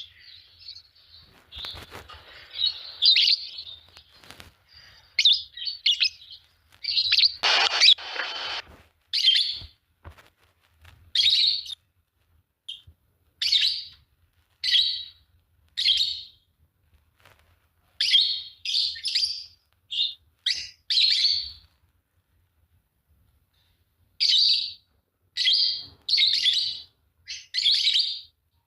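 Fischer's lovebirds chirping: a string of short, high chirps, some in quick runs, with a pause of about two seconds near the end.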